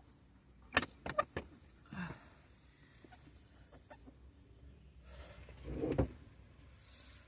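Hard clicks and clatter of hand tools and plastic trim parts being handled: four sharp clicks in quick succession about a second in, a short scrape, then a longer rustling scrape near the end that finishes in a knock.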